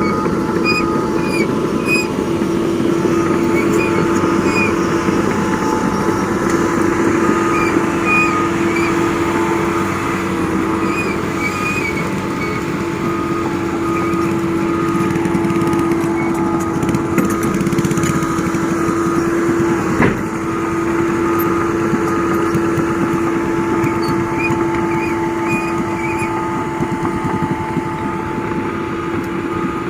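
Doosan DX225 LCA excavator's diesel engine running steadily under work, a constant hum with short high chirps here and there. A single sharp knock comes about twenty seconds in.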